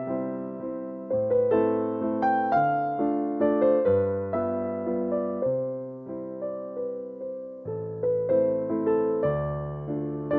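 Solo piano music playing a gentle waltz, notes struck in a steady rhythm and left to ring.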